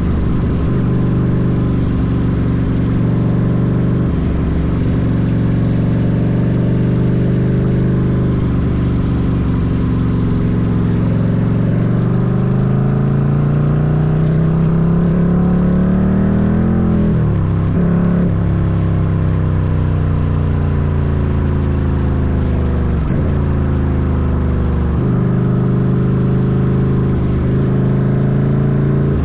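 Ducati Scrambler's air-cooled L-twin engine running under way. About halfway through its pitch climbs steadily for several seconds as the bike pulls up through the revs, then drops sharply, and it dips briefly a few more times near the end.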